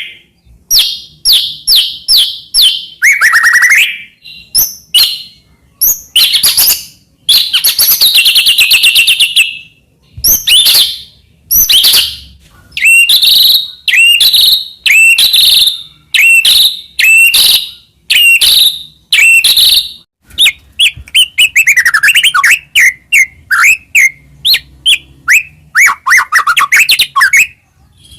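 A white-rumped shama (murai batu) singing loudly in full song: a rapid, varied run of whistled phrases, trills and sharp chirps with short pauses between them. The phrases turn into quicker strings of short notes and downward-sliding calls about two-thirds of the way through.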